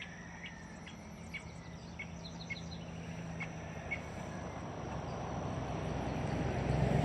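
Tropical forest ambience: insects keep up a steady high-pitched drone, with short chirps repeating about twice a second. Under them a low hum grows louder toward the end.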